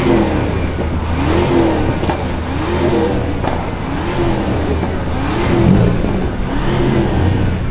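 Car engine revved over and over, its pitch climbing and dropping with each blip of the throttle, with exhaust pops crackling between the revs.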